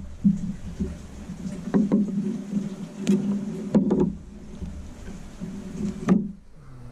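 Hand work on a wooden skin-on-frame kayak frame: lashing cord being worked around a stringer and form, with several sharp knocks and clicks, the loudest about two, three, four and six seconds in, over a low steady hum.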